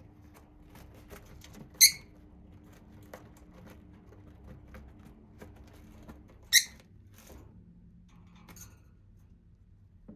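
Lovebirds giving two short, loud, high-pitched chirps about five seconds apart, with a fainter chirp near the end. Light scratching and ticking sounds fill the gaps between the calls.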